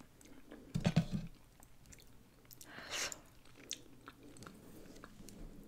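Close-miked chewing of a mouthful of food: soft wet mouth sounds and small clicks, with a louder chew about a second in and a hissier mouth sound around three seconds in.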